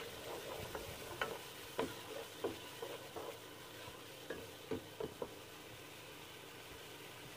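Browned onions and whole spices sizzling in oil in a steel pot, with a wooden spoon stirring and knocking against the pot in a string of short taps during the first five seconds or so, then just the steady sizzle.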